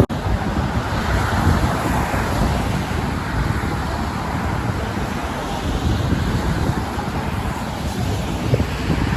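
Storm wind buffeting the microphone in a steady low rumble, with the wash of road traffic on the bridge mixed in. The sound drops out for an instant right at the start.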